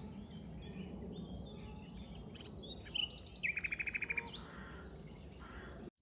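Common nightingale singing: scattered phrases, with a rising note and then a fast run of evenly repeated notes about three seconds in, over a steady low background rumble.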